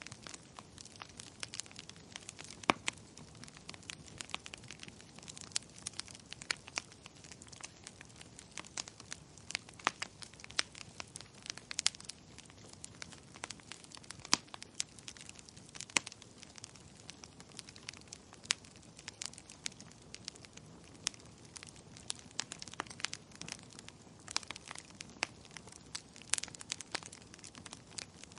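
Wood fire crackling in a fireplace: irregular sharp pops and snaps, a few each second, some much louder than the rest, over a soft steady hiss.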